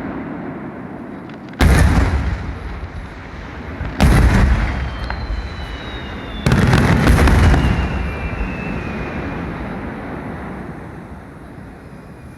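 Aerial fireworks shells bursting: three loud booms about two and a half seconds apart, each followed by a rolling rumble that fades away slowly after the last.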